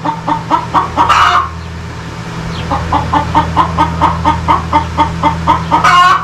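Domestic fowl clucking in a rapid, even series of about four clucks a second, with a louder call near the end, over a steady low hum.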